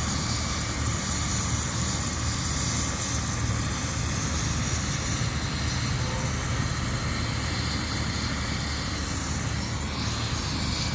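Helicopter running on the ground before takeoff: a steady low drone from its engine and rotors.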